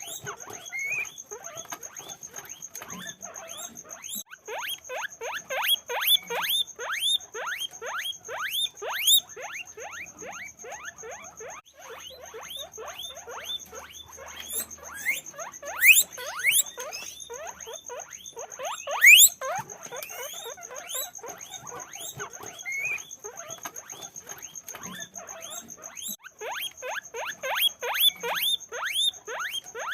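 Guinea pigs squeaking, a dense run of short calls that rise sharply in pitch, several a second and overlapping, with the loudest calls about halfway through. A faint, steady high-pitched pulsing tone sits underneath.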